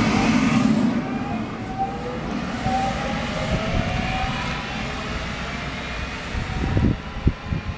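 DART light rail train pulling away, its electric drive whining in tones that rise slowly in pitch as it gathers speed over a low rumble. A few short knocks come near the end.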